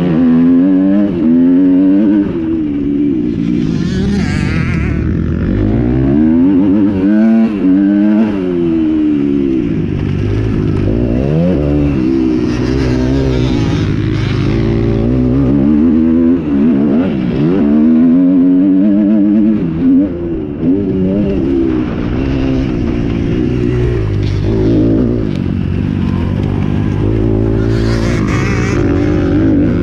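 Several motocross bikes' engines revving, their pitch climbing and dropping again and again with the throttle, overlapping one another.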